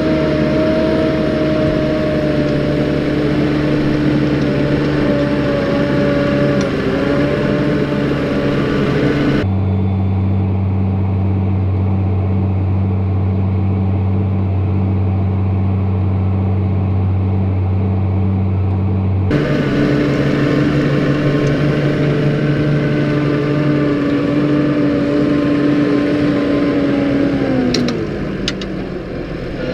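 Tractor engine running steadily with a deep drone and a steady whine. It switches abruptly to a lower, deeper hum for about ten seconds, then back. Near the end the engine's pitch falls as it slows, and a few clicks follow.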